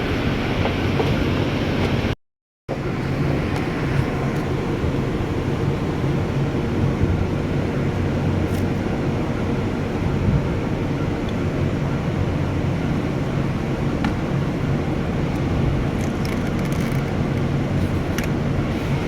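Steady low machine hum with a constant drone, and a few light clicks near the end. The sound cuts out completely for about half a second roughly two seconds in.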